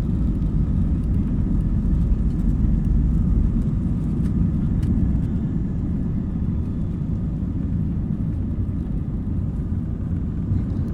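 Jet airliner cabin during takeoff: a steady, loud low rumble of engine and airflow noise.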